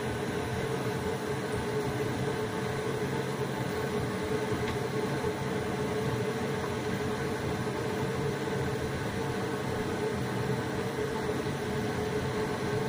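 Steady mechanical hum with a constant droning tone and a hiss over it, unchanging throughout.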